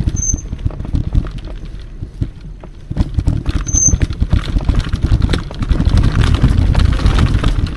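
Mountain bike riding over a rough trail: a steady rumble of tyres with a rapid, uneven rattle of knocks, louder from about three seconds in. Two short high chirps sound, near the start and about four seconds in.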